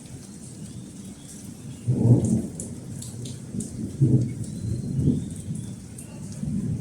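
Thunder rumbling under steady rain, with the rumble swelling loudly about two seconds in and again around four and five seconds; raindrops tick over it.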